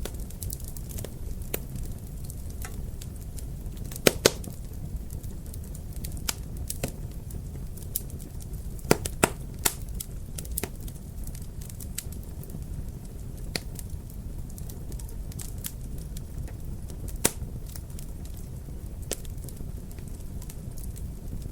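Wood fire crackling in a fireplace: a steady low rumble of flames with irregular sharp pops and crackles. A few louder pops stand out, two close together about four seconds in, two more about nine seconds in, and one more a few seconds before the end.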